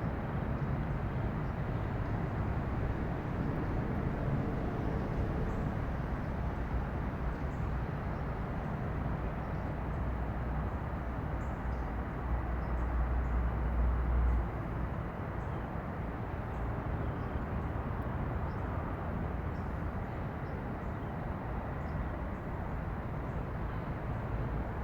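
Steady outdoor rumble of distant vehicle traffic, with a deeper low rumble building until about fourteen seconds in and then dropping away suddenly. Faint short high chirps sound now and then.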